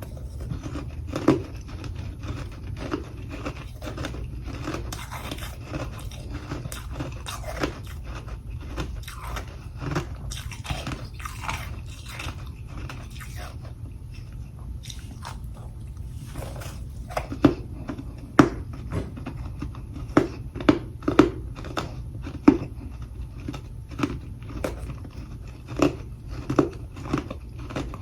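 Close-up biting and chewing of humidifier freezer frost: a steady run of small crisp crunches, with sharper, louder separate bites in the last third, over a steady low hum.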